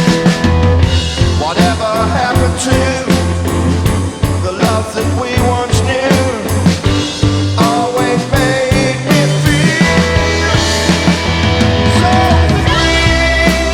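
A live rock band playing a psychedelic-tinged instrumental passage, with electric guitars, bass and a drum kit keeping a steady beat. A held bass note and a long sustained guitar note come in near the end.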